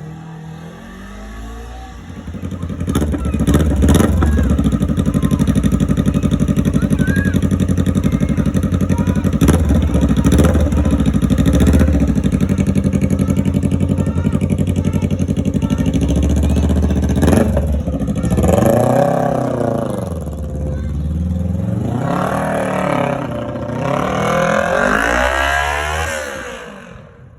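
Kawasaki Ninja 400's parallel-twin engine running with its muffler removed: it grows loud about two seconds in and runs steadily, with a few sharp cracks, then is revved in three throttle blips near the end, the pitch rising and falling each time.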